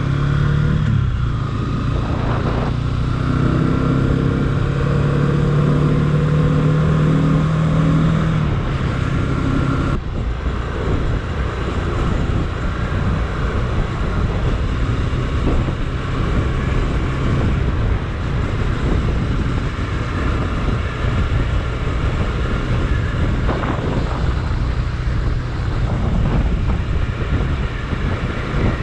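Motorcycle engine running at a steady pace, its tone rising slightly over the first eight seconds, then giving way to a rough rushing noise with low rumble, like wind and road noise while riding.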